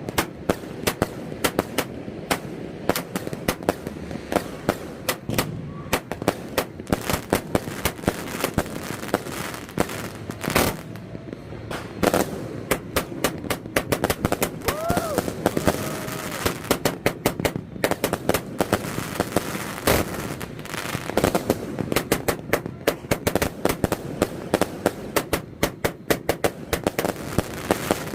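A multi-shot fireworks cake firing shot after shot in quick succession: a dense string of sharp bangs and crackles, thinning briefly about ten seconds in. A short whistling glide is heard about halfway through.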